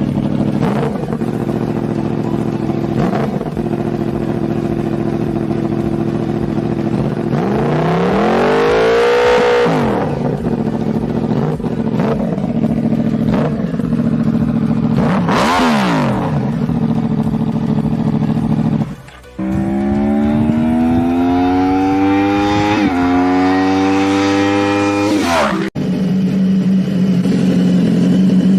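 Motorcycle engines with loud exhausts, idling steadily and being revved up and down, then pulling hard with revs rising through several gear changes in the later part. The sound breaks off briefly twice.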